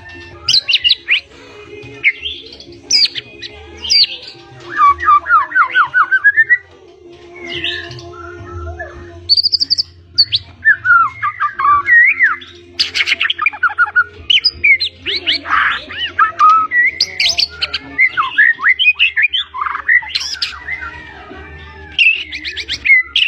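White-rumped shama singing a fast, varied song of loud whistles, rapid trills and rattling runs, packed with phrases mimicked from other birds, one phrase after another with short pauses between.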